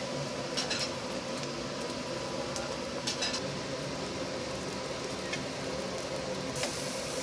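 Eggplant slices frying in hot oil in nonstick pans, a steady sizzle, with a couple of light clicks of metal against the pans about a second in and about three seconds in.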